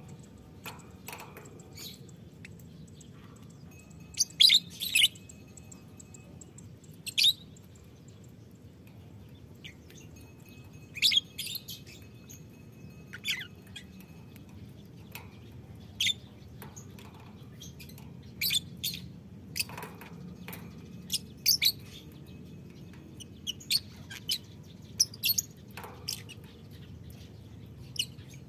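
Lovebirds in colony cages giving short, shrill chirps at irregular intervals, a few calls standing out louder, over a steady low background hum.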